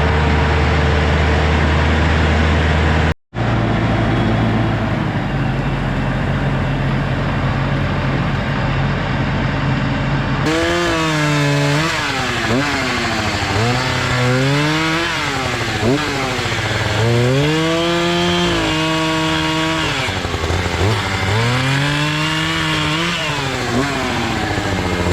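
A steady engine drone, broken by a brief dropout about three seconds in. From about ten seconds in, a chainsaw revs up and down over and over as it cuts wood.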